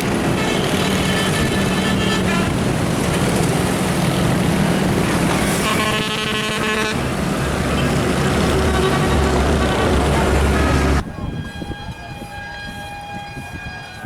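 A train passing close by, its wheels and running noise loud and steady, with a horn blast lasting about a second about six seconds in. The noise drops off suddenly near the end, leaving fainter tones.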